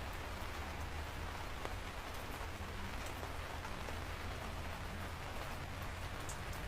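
Steady rain: a continuous hiss with scattered individual drops ticking through it, over a steady low rumble.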